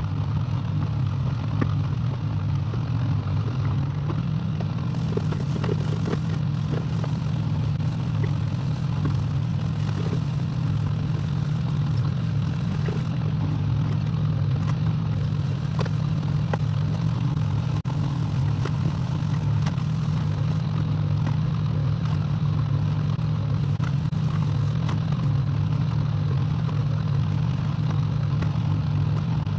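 Excavator's diesel engine running steadily, with light scattered clicks and clatter from the machine at work.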